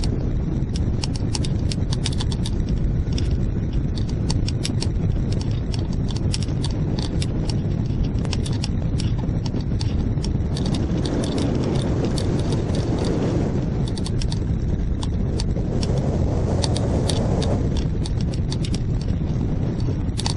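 Wind rushing and buffeting over the microphone of a camera on a hang glider in flight, swelling twice. Throughout it there is a quick, irregular clicking rattle.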